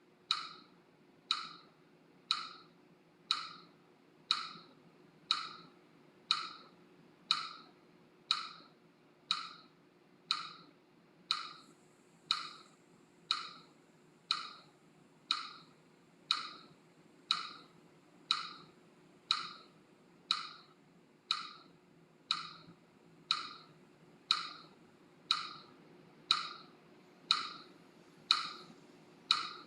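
Steady, even ticking, about one tick a second, each tick short and wood-like, keeping a beat for counting slow paced breaths.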